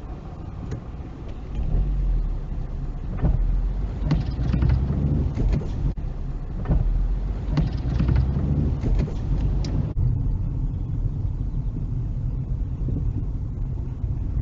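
Car road and engine noise heard from inside the car, a steady low rumble with scattered short knocks from the road surface. About ten seconds in the sound changes to a smoother rumble with fewer knocks.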